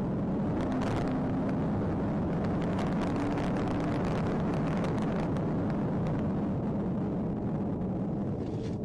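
Steady vehicle engine and road noise, an even rumble and hiss with a faint hum in the first few seconds.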